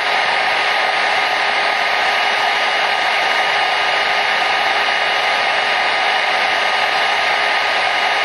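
Hair dryer running steadily: an even rushing hiss of air with a faint, constant motor whine.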